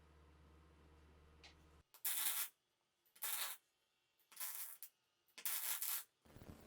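Four strokes of abrasive rubbing, each about half a second long and roughly a second apart, like hand sanding on a restoration part. They follow a low steady hum that cuts off about two seconds in.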